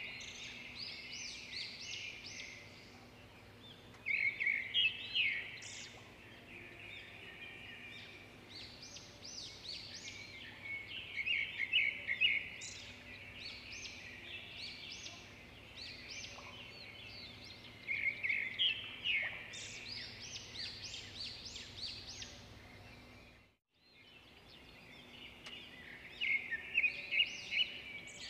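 Small birds chirping in quick bursts of notes that come in clusters every few seconds, dropping out for a moment about three-quarters of the way through.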